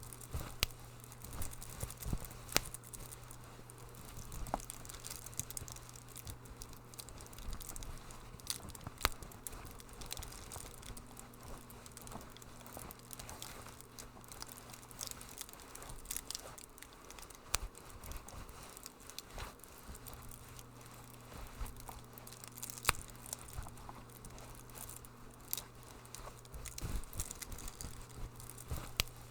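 Wood fire crackling in a fireplace, with irregular sharp pops and snaps over a low steady hum.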